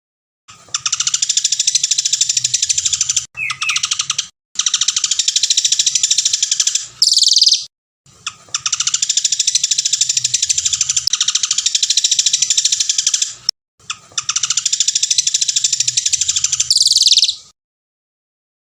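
Songbird singing long phrases of fast, dense, high-pitched trilling. Each phrase ends in a louder sweeping note, and the phrases are separated by abrupt cuts to dead silence, as in an edited birdsong training recording.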